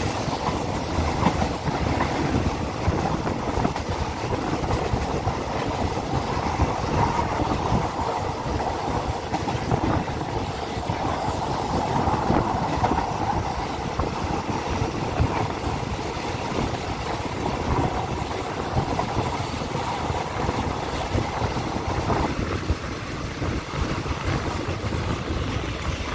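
A moving passenger train's running noise heard through an open carriage window: a steady rumble of wheels on rail, with the tank wagons of a freight train passing on the next track at first.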